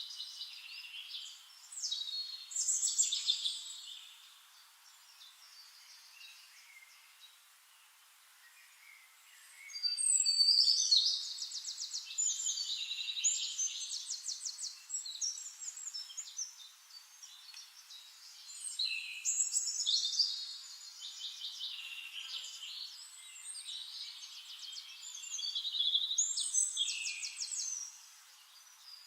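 Small songbirds singing high trilled phrases in several bouts, with quieter gaps between them.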